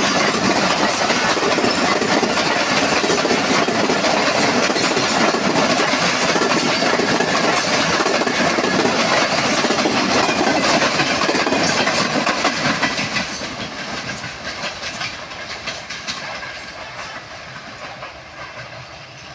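Pakistan Railways passenger coaches rolling past close by, their wheels clattering over the rail joints. The sound fades steadily from about two-thirds of the way through as the last coach moves away.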